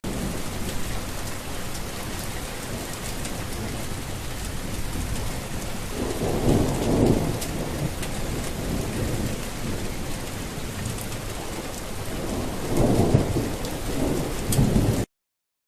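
Steady heavy rain with two low rolls of thunder, one about halfway through and one near the end; the sound cuts off abruptly just before the end.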